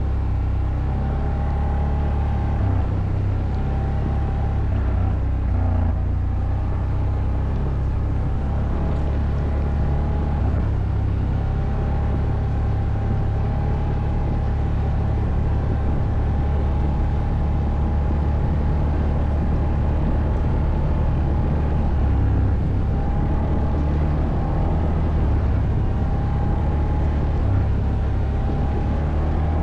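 ATV engine running steadily while riding off-road: a deep, even rumble with a faint whine that rises and falls slightly with the throttle.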